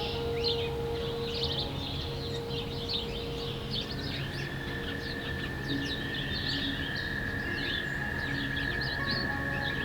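Many small birds chirping and calling in quick, overlapping short notes throughout.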